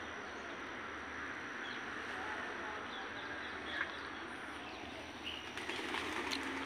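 Steady outdoor background hiss with scattered faint bird chirps, and a single click about four seconds in.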